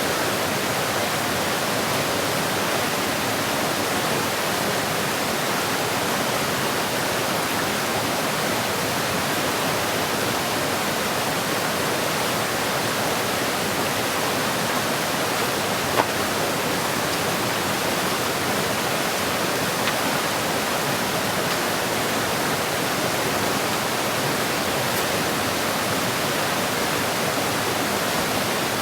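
Mountain creek running over stones: a steady rush of flowing water, with one brief knock about sixteen seconds in.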